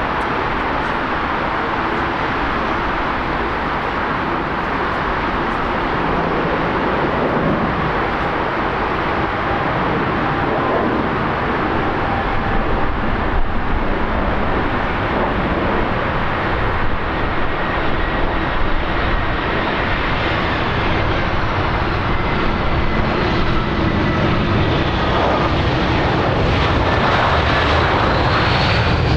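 Airliner engines running: a steady, loud rush that grows slowly louder, with thin whining tones that slide down in pitch in the second half as the aircraft passes.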